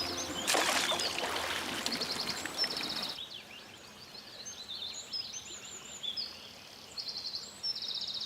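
Water splashing and rushing for about two and a half seconds, cutting off abruptly, followed by high chirping calls and short rapid trills from small birds.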